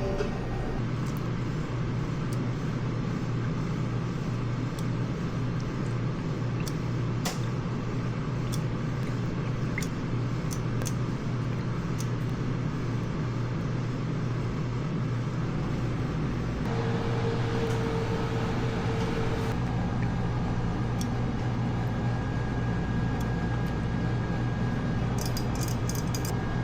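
A steady low machine hum, with scattered faint clicks and a short steady higher tone about two-thirds of the way in.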